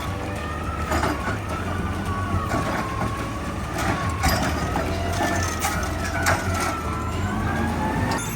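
Garbage truck running while its automated arm dumps a full cart: a steady engine drone with a wavering, rising-and-falling whine from the hydraulics, and several clanks and bangs from the arm and bin.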